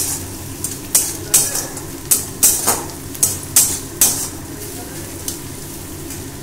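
Flat metal spatula scraping and stirring chopped onion, garlic and ginger frying in oil in a metal karai, with about ten quick scrapes in the first four seconds, then mostly a steady sizzle.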